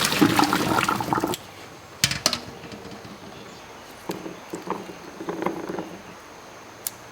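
Water pouring, stopping about a second and a half in. Then come two sharp knocks and a scatter of lighter knocks and clicks.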